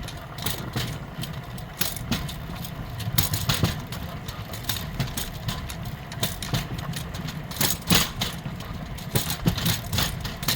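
A rail bike's steel wheels rolling along old track: a steady low rumble, with frequent sharp clicks and clacks from the wheels and rails.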